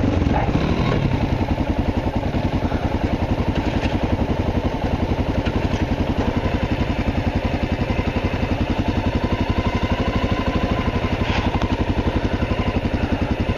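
Single-cylinder Honda XR650L motorcycle engine idling steadily, with a fast, even beat of firing pulses.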